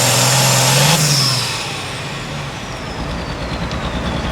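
Super stock pulling tractor's engine running hard, then backing off about a second in. The turbocharger's high whine falls steadily as the engine drops to a low, pulsing rumble.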